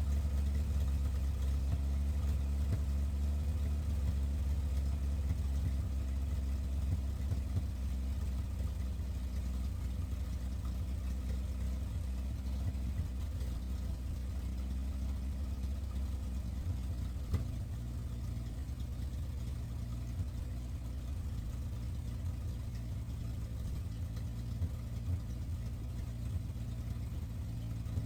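Chevy inline-six engine idling steadily on a freshly rebuilt Rochester Monojet carburetor during its first test runs. Its low note shifts a little about two-thirds of the way through.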